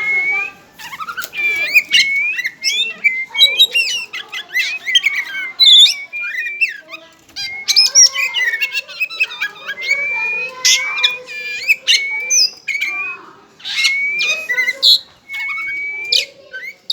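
Oriental magpie-robin (kacer) singing a long, varied song of short clear whistled notes, many sliding up or down, mixed with sharp clicks.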